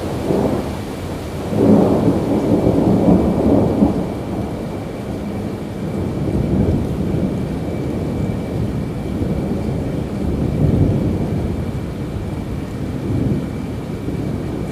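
Thunder rolling over steady rain. The loudest rumble swells about a second and a half in and lasts a couple of seconds, and weaker rolls follow later.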